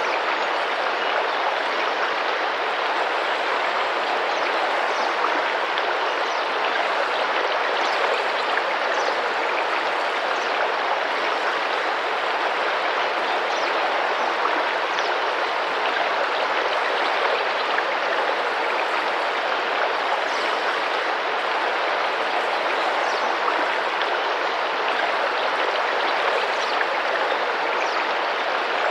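Rainforest river flowing steadily, an even rush of splashing water, with faint short high notes now and then.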